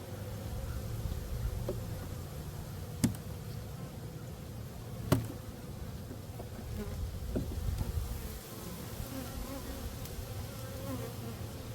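Honey bees buzzing around an opened hive, a steady low hum, with two sharp knocks about three seconds in and again two seconds later.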